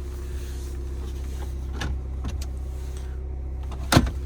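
Volkswagen Passat 2.0-litre diesel engine idling with a steady low hum. A few light clicks come around the middle, and a single sharp knock near the end is the loudest sound.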